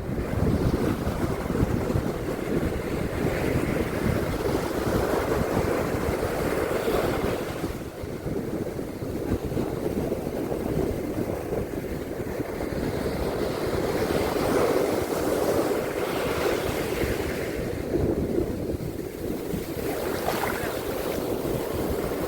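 Surf washing onto a beach: a steady rush of breaking waves that swells and eases every few seconds.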